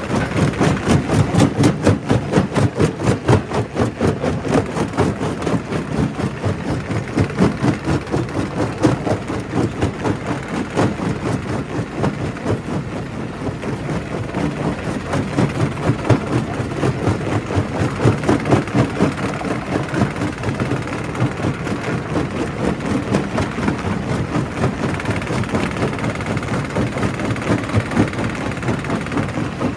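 Primary rock crusher running under load: a steady heavy machine drone with rapid, continuous knocking and crunching of stone being broken.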